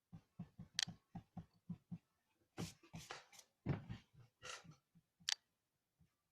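Pencil scratching on paper in quick short back-and-forth strokes, about six a second, then a few longer strokes and a sharp tap about five seconds in.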